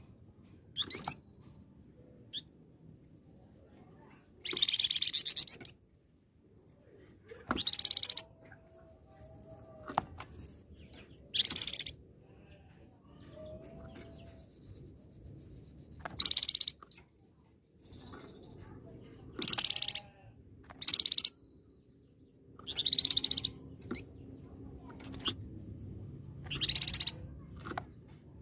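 A flamboyan songbird singing in loud, high-pitched bursts of about a second each, repeated every few seconds, with faint thin whistles between the bursts.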